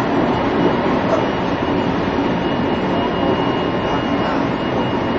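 Steady running noise heard inside the cabin of a JR Central 373 series electric multiple-unit train under way: an even rumble and hiss, with a faint steady high tone and no distinct rail-joint clicks. The recording carries some extra noise from a recording-setting error.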